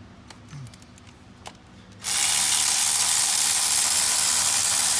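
A few faint clicks, then from about two seconds in a ratchet runs in one loud continuous rattle, working a bolt loose while the valve cover is being taken off.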